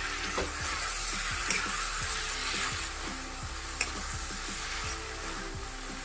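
Taro pieces sizzling as they fry in oil in a metal kadhai on a high flame while they are stirred with a spatula, with a few sharp knocks of the spatula against the pan, the clearest about one and a half seconds and four seconds in. Background music plays underneath.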